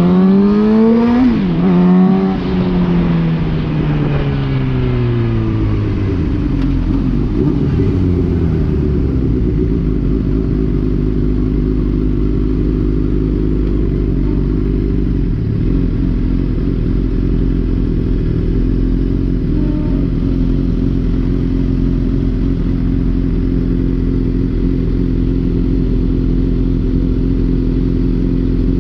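2011 Suzuki GSX-R750 inline-four sport-bike engine accelerating hard for about two seconds, then dropping in revs as the bike slows, then running at steady revs at cruising speed, over low wind rush.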